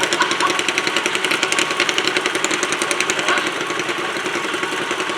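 Super stock garden tractor's engine running hard with a rapid, even firing beat.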